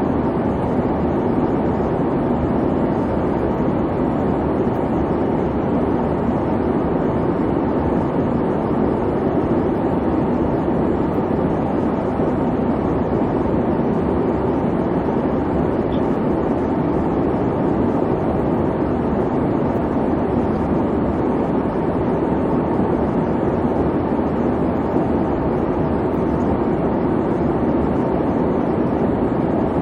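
Airliner cabin noise in flight: a steady, even rumble and whoosh of engines and airflow, heaviest in the low-mid range and dull above, with no change in level.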